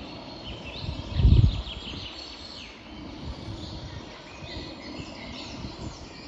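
Songbirds chirping and trilling over a steady background hiss, with a brief low rumble about a second in.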